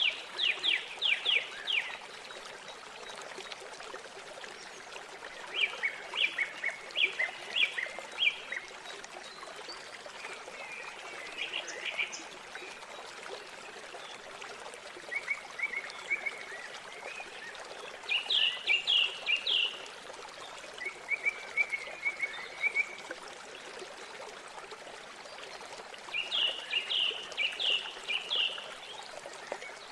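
Birdsong over the steady rush of flowing river water. Short phrases of rapid, repeated high chirping notes come every few seconds.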